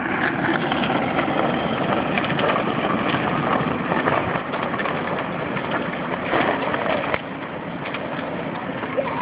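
Muscle car engine running steadily, a little quieter from about seven seconds in.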